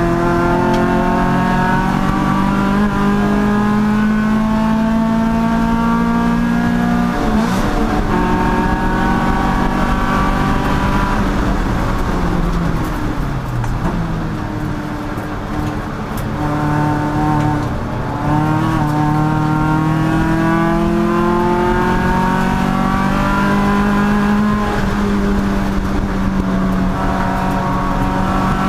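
Race car engine running hard through a lap. Its pitch climbs under acceleration and drops several times as it shifts or slows for corners.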